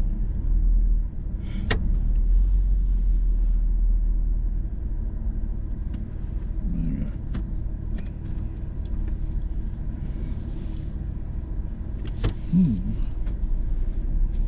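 Hummer H2 crawling along a rough off-road trail, heard inside the cabin: a steady low rumble from the engine and drivetrain, with a couple of sharp knocks and rattles as it goes over the rocks.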